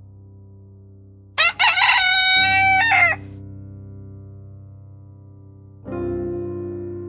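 A rooster crowing once: two short opening notes, then a long held note that drops slightly at the end, about a second and a half in all, over soft background music.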